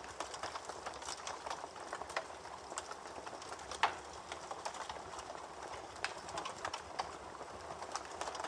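Rain falling, heard as a soft steady hiss with many irregular sharp drips and taps, one louder tap about four seconds in.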